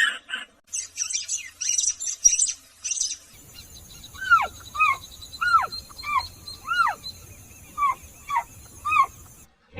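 Bird calls in two clips. First comes a rapid, high twittering; then, after a sudden change about three seconds in, a series of short arching calls, about two a second, over a steady hiss.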